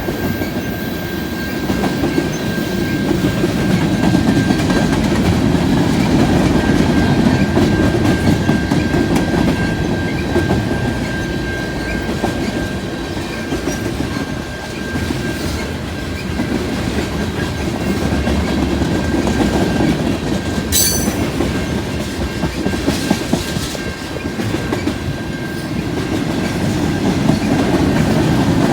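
Freight train cars rolling past, their wheels clacking over the rail joints, with a thin, steady high squeal above the rumble. There is one sharp clack about two-thirds of the way through.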